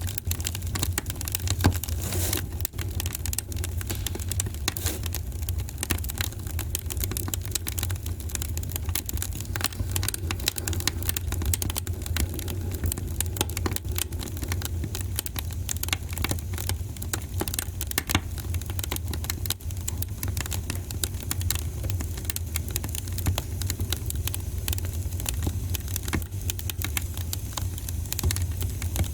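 Wood fire in a fireplace crackling: a dense, irregular run of small snaps and pops over a steady low rumble.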